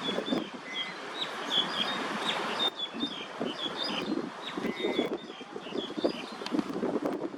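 Small birds chirping, many short notes in quick succession, over a low, steady rumble of city traffic.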